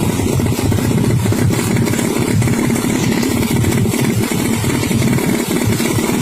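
Motorcycle engine running steadily at a constant speed, with a dense, even beat and no revving.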